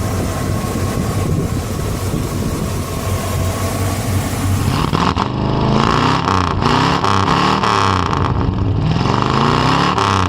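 Car engine running steadily, then about halfway through a louder engine sound with repeated quick rises and falls in pitch, as in revving.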